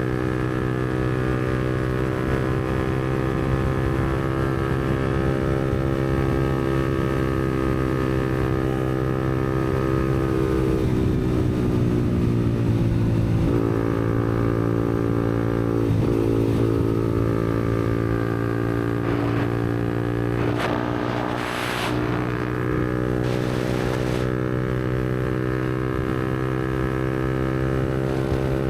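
Yamaha MT-125's single-cylinder 125 cc four-stroke engine running through a Black Widow aftermarket exhaust at a steady cruise. About ten seconds in the revs drop and climb back up over a few seconds, and a brief hiss comes in a little past two-thirds through.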